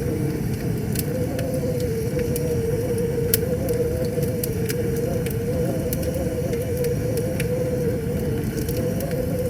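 Wood fire crackling, with irregular sharp pops, over a steady low rush of river water and a wavering hum-like tone.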